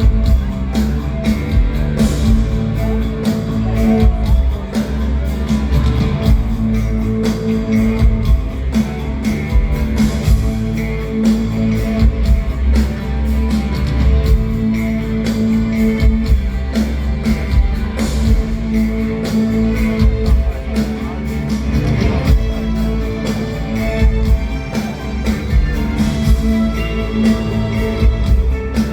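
Live rock band playing, with guitar over a steady drum beat and heavy bass.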